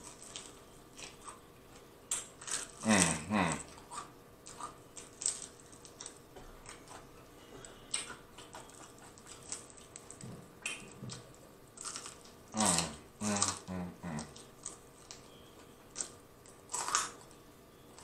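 Close-miked eating of fried chicken wings: crunchy biting and chewing with small wet mouth clicks as the meat is pulled and picked off the bones. Short hummed murmurs from the eater come about three seconds in, again around thirteen seconds, and once more near the end.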